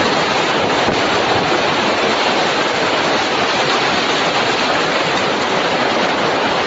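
Strong storm wind rushing steadily, a dense, even noise with no let-up.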